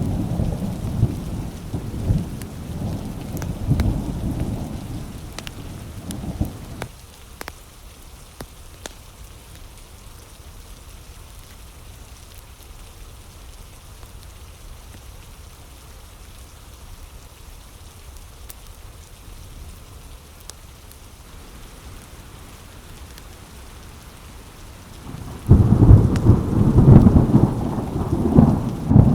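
Thunderstorm: rolling thunder rumbles over steady rain for the first several seconds and dies away. Steady rain follows with a few faint ticks. Loud thunder breaks in suddenly near the end.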